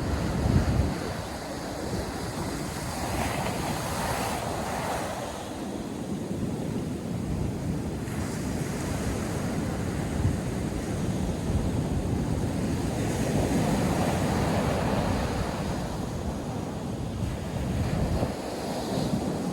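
North Sea surf washing onto the beach in a steady, swelling rush, with wind buffeting the microphone in low rumbles.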